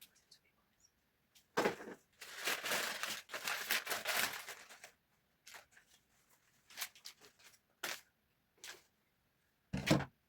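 Plastic packaging crinkling and tearing as a newly bought item is unwrapped by hand. There is a long run of rustling in the first half, then short separate rustles, and a heavier knock near the end.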